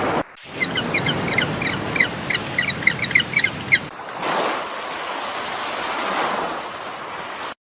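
A bird chirping in quick, repeated short notes over a steady hiss. About four seconds in, this cuts to a steady rushing noise with no calls.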